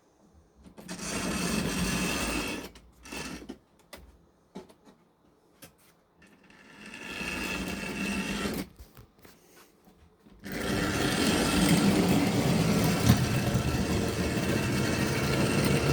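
Tri-ang model train locomotive running on the track, its small electric motor whirring and its wheels rattling over the rails. It runs in short stretches about a second in and around seven seconds, then steadily from about ten seconds in.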